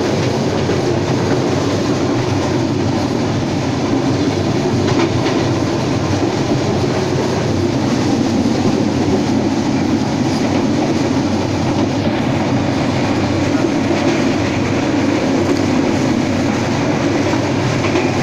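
Passenger train running steadily at speed: a continuous rumble of the wheels on the rails, heard from inside a carriage at an open window.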